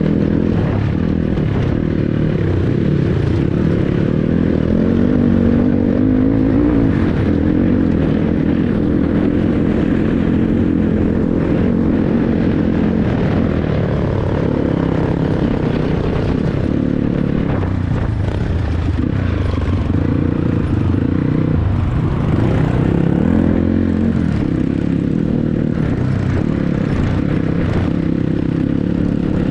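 Dirt bike engine running under way, its pitch rising and falling with the throttle, with a climbing engine note about five to seven seconds in.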